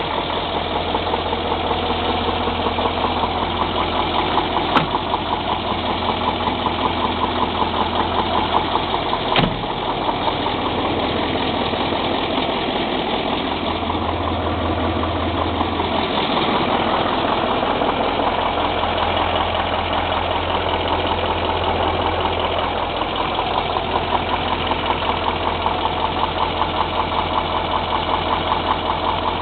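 MAZ-54328 truck's YaMZ-7511 V8 turbodiesel idling steadily, with two short clicks about five and nine seconds in.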